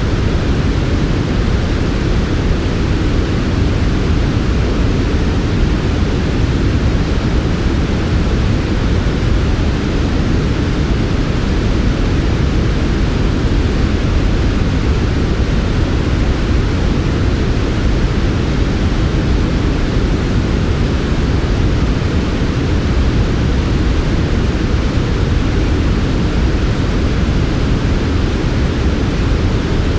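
Continuous generated noise for sleep, steady and unchanging, heavy in the low end and softer in the highs.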